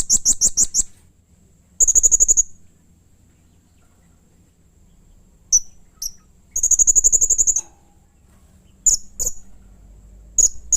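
Blue-crowned hanging parrot (serindit) giving shrill, high-pitched trills: rapid buzzy strings of notes lasting about a second each, three of them, broken up by short sharp single chirps.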